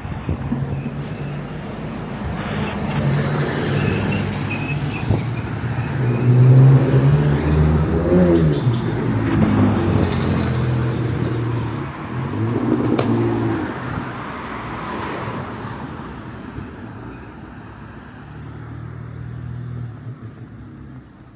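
Street traffic: motor vehicles driving past close by, their engine pitch rising and falling, loudest a few seconds in and again past the middle. A single sharp click sounds just after the middle.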